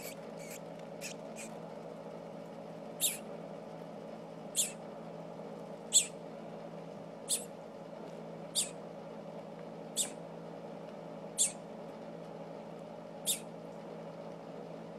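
Baby bird giving short, high-pitched peeps, a few quick ones at first and then one about every second and a half, over a steady low hum.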